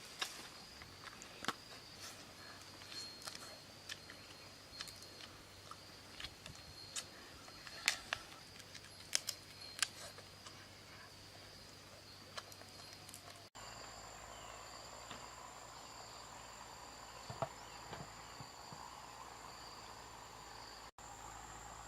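Insects chirring steadily in the background, with scattered sharp clicks and snaps during the first half. After an abrupt cut about halfway through, a higher-pitched insect drone takes over.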